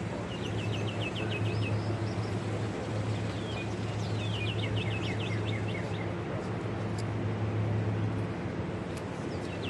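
A steady low engine-like hum, with a bird calling in quick trills of short chirps, three bursts of them.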